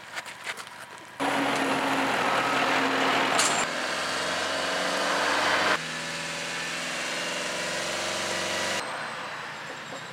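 A motor vehicle's engine running steadily. It cuts in abruptly about a second in and changes sharply at several points, as if spliced from separate shots.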